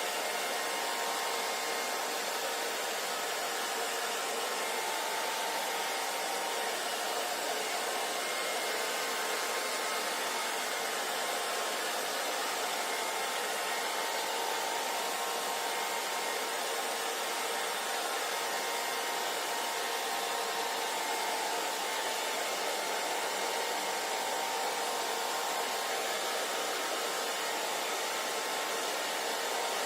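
Hair dryer running continuously: a steady rush of blown air with a faint motor whine, unchanging in level.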